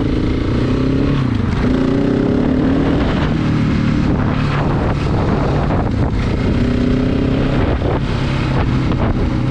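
KTM 690 single-cylinder motorcycle engine pulling hard out of a roundabout. Its pitch rises, drops back at the gear changes, then rises again, over steady wind noise on the microphone.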